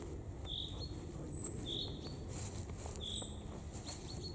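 A bird repeating a short high call about once a second, each a brief note followed by a higher falling whistle, over low rustling background noise with a few faint clicks.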